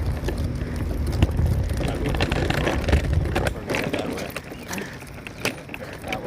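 Low rumble of wind and handling noise on a handheld phone microphone during a walk, with scattered light clicks and taps.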